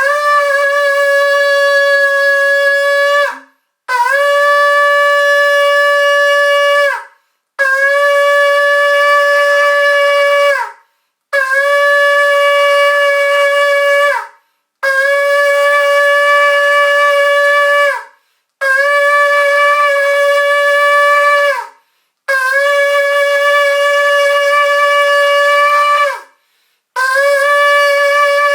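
A shofar (ram's horn) blown in a series of long, steady blasts, eight in all, each about three seconds long with brief pauses between. Each blast opens with a quick upward scoop into the note and falls off in pitch as it ends.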